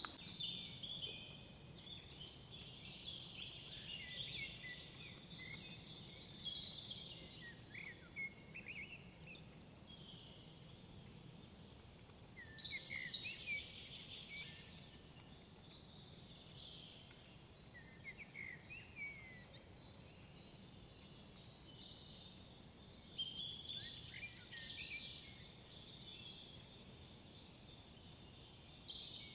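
Songbirds singing in a forest: several bursts of song with quick chirps and high trills, coming every few seconds over a steady low background noise.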